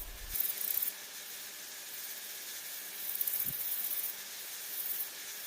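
Soft, steady hiss of a background ambience bed, with a few short, high, finely grained buzzing patches over it and one faint low thump about three and a half seconds in.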